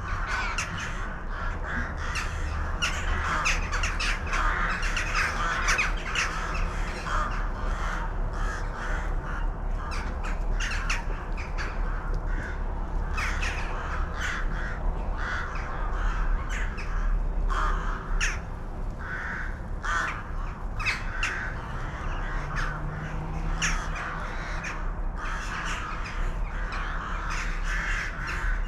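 A flock of birds calling continuously, many short calls overlapping.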